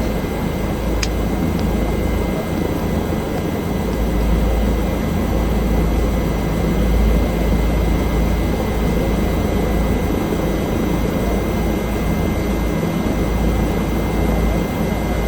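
Bell helicopter running in flight: a steady engine and rotor drone with a constant high whine over it.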